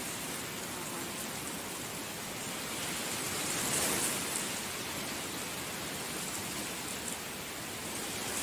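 Heavy rain falling steadily, swelling a little in the middle.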